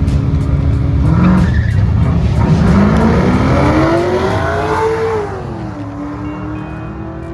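Drag car's V8 revving hard with tires squealing, as in a burnout: the engine note climbs for about four seconds, then drops back about five seconds in to a steady, lower running note.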